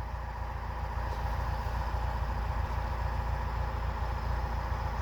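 Tractor engine running steadily, a continuous low rumble with a constant hum.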